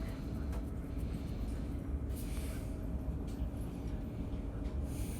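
Passenger train running, heard from inside the carriage: a steady low rumble with a faint hum, and two short hisses, one about two seconds in and one near the end.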